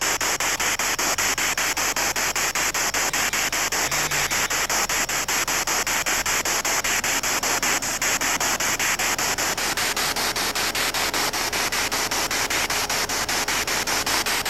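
SB7 spirit box sweeping through radio stations: loud, steady radio static chopped into rapid, evenly spaced pulses several times a second as it jumps from frequency to frequency.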